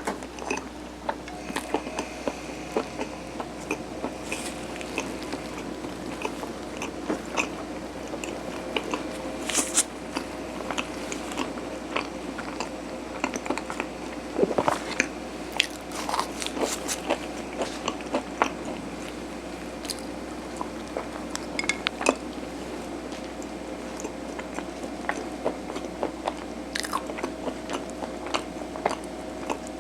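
Close-miked chewing of mung bean sirutteok (steamed rice cake): irregular wet mouth clicks and smacks over a steady low room hum.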